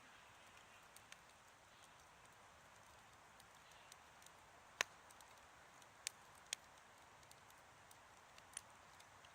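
Wood fire crackling softly: a faint hiss with scattered sharp pops from the burning wood, the loudest about five seconds in and a few more after it.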